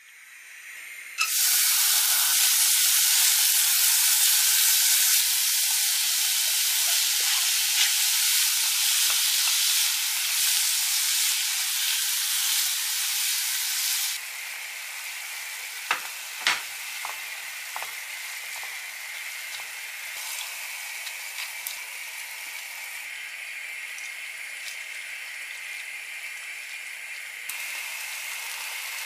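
Sliced abalone and diced vegetables sizzling in hot oil in a saucepan, stirred with a spatula. The loud sizzle starts suddenly about a second in and drops to a quieter fry about halfway through, with a few light knocks of the spatula on the pot. Water is poured in near the end.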